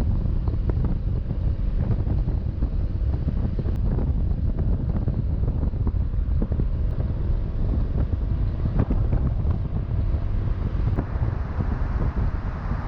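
Steady wind buffeting the microphone while riding a Honda ADV350 scooter, with the vehicle's running noise underneath.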